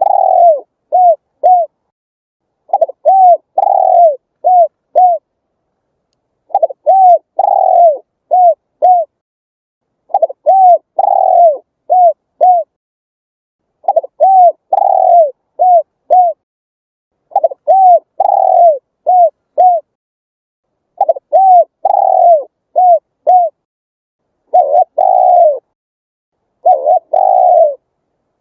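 Spotted dove cooing: the same phrase repeated about every four seconds, a pair of short coos, one longer drawn-out coo, then two more short coos.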